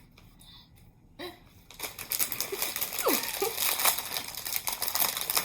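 Plastic potato chip bag crinkling loudly as it is handled and opened, starting about two seconds in.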